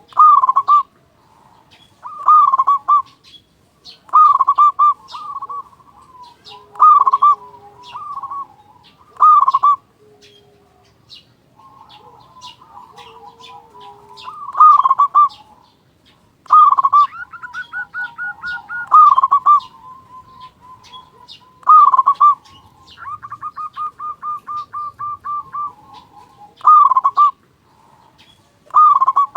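Zebra dove (perkutut) cooing loudly: a run of short staccato coo phrases about every two seconds, and in the second half long rapid trilling runs between the louder phrases.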